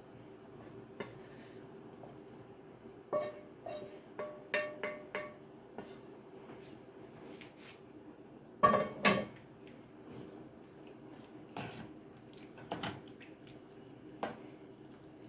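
Utensil knocking and scraping against a cooking pot as ground beef goes into the chili, with several light clinks that ring briefly and two loud knocks about halfway through. A faint steady hum runs underneath.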